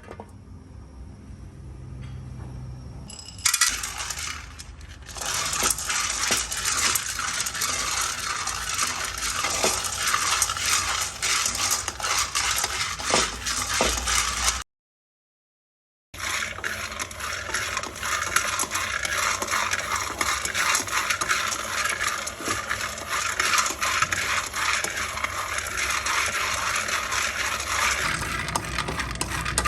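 Dried robusta coffee beans rattling and clicking against a pan in a fast, dense patter as they are stirred, broken once by a short silence near the middle.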